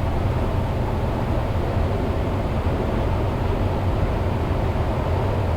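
Steady in-cabin drone of a Cessna 172 in flight: the engine and propeller are throttled back for a gliding descent on final approach, with airflow over the airframe.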